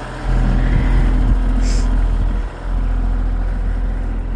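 Strong wind gusts buffeting the microphone: a heavy low rumble that comes on suddenly about a quarter second in, drops out for a moment around halfway, then carries on.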